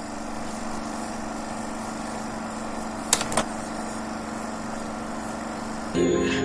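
A steady motor-like hum with one held tone, broken by two short clicks about three seconds in; music starts near the end.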